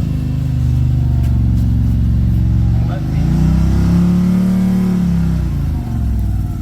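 Side-by-side UTV engine running and being revved, its pitch dipping about three seconds in, climbing and holding, then falling away near the end.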